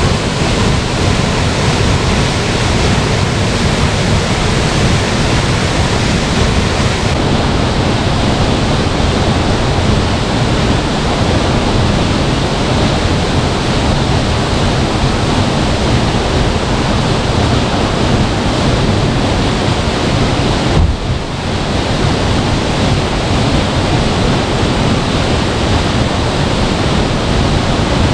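Waterfall rushing: a loud, steady wash of falling water whose tone shifts abruptly twice.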